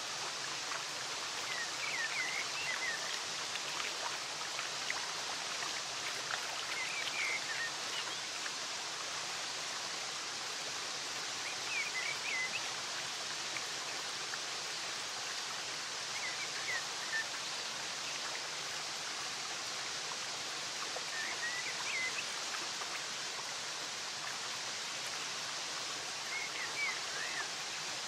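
Steady rushing of flowing water, with a small bird giving short bursts of high chirps about every five seconds.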